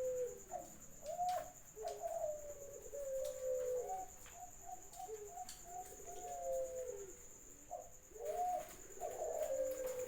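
Caged doves cooing: a series of low, hollow coo notes, some drawn out and some quick and clipped in a rapid run. A steady thin high-pitched tone sounds underneath.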